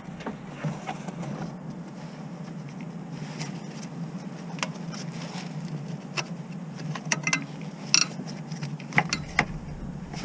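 Scattered metallic clicks and taps of hand tools being handled during a clutch job, over a steady low hum. The sharpest clinks come about eight and nine seconds in.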